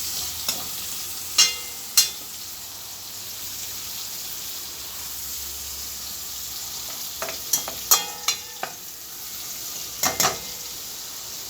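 Chopped onion sizzling in bacon grease in a pot, a steady hiss, with a utensil stirring and clacking against the pot several times, most around two seconds in, near eight seconds in and near ten seconds in.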